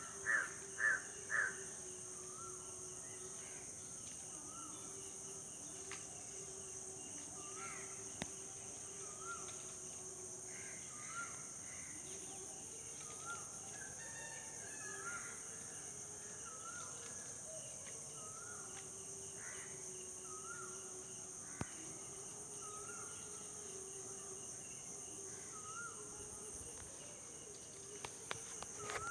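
A crow cawing four times at the start, then a smaller bird repeating a short call about every second and a half over a steady high drone of insects.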